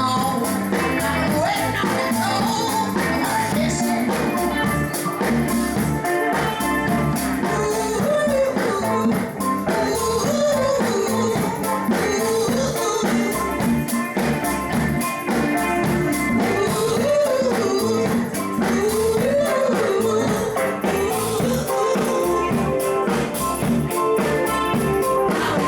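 A live band jamming: loud, continuous music with a steady beat and a melody line that wavers up and down in pitch.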